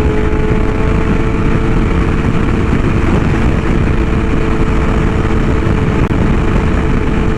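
BMW S1000RR inline-four engine running at a steady, constant pitch while the motorcycle cruises. Wind rushes over the helmet microphone.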